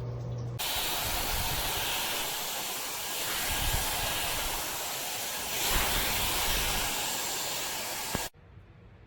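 Hair dryer brush blowing air: a loud, steady rush that starts about half a second in, swells a little twice, and cuts off suddenly near the end.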